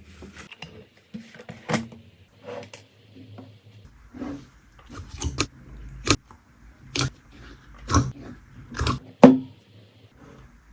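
Slime being handled by hand, giving an irregular run of sharp pops and clicks that come more often and louder in the second half, the loudest near the end.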